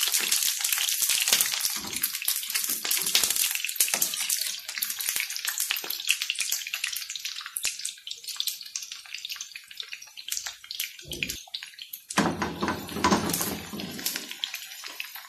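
Potato slices sizzling and crackling as they shallow-fry in hot oil in a non-stick frying pan, loudest in the first few seconds while metal tongs turn them, then settling to a softer crackle. A brief, fuller burst of noise comes about twelve seconds in.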